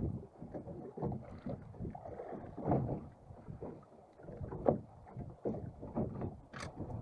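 Water slapping irregularly against the hull of a small fishing boat as it rocks, with uneven knocks and splashes and no engine running.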